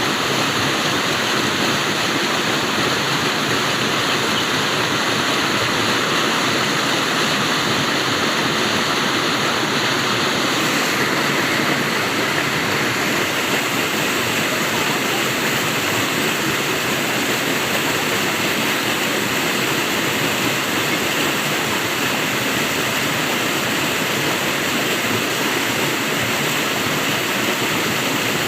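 Flowing water rushing steadily, as of a stream or small waterfall, with an even, unbroken wash of sound.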